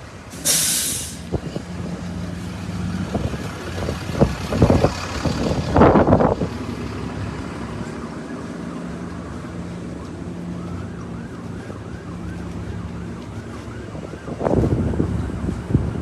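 A large vehicle's engine idling with a steady low hum, with a short sharp hiss about half a second in and some knocks and rumbles a few seconds later. A faint wavering siren joins in the second half, and louder traffic sound picks up near the end.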